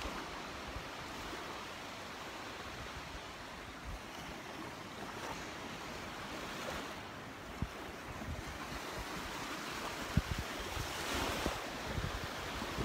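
Gulf surf washing onto a sandy beach, with wind buffeting the microphone in scattered low thumps. The wash swells louder about eleven seconds in.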